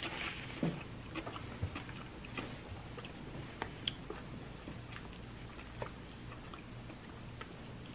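Chewing and biting into a raw kale salad, with scattered small crunches and clicks.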